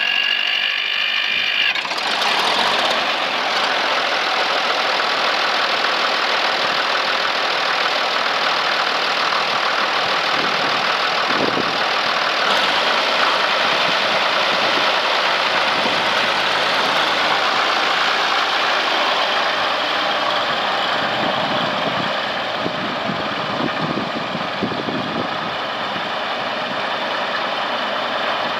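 1961 Case 930 tractor engine being started: a starter whine rising over the first couple of seconds, then the engine catches and runs steadily.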